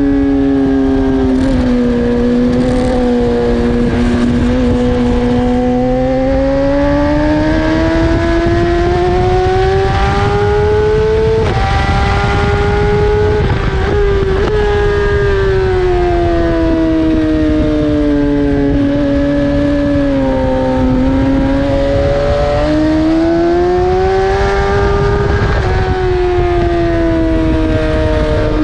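BMW S1000RR's inline-four engine at racing speed, heard on board: the pitch climbs and falls slowly with the throttle through the corners, with several sudden steps at gear changes. A steady rush of wind noise lies underneath.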